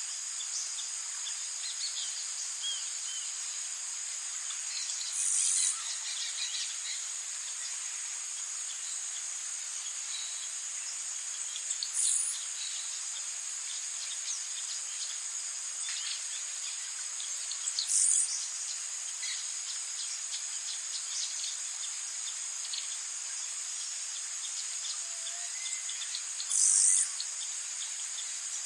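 Tropical rainforest ambience: a steady, high-pitched insect chorus with faint scattered bird chirps. Four brief, louder high-pitched calls stand out, about six seconds apart.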